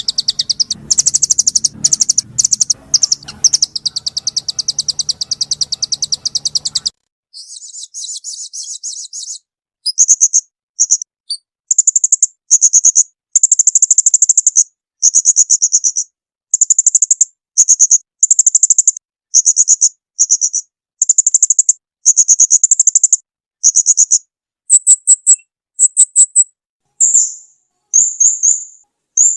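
Recorded songbird song: a loud, rapid high-pitched trill, giving way about 7 s in to a softer trill, then from about 10 s a long run of short, sharp high chirping phrases repeated in quick succession.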